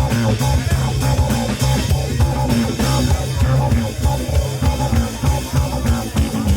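Live rock band playing an instrumental passage: electric guitar, bass guitar and drum kit, with a strong bass line and a steady beat.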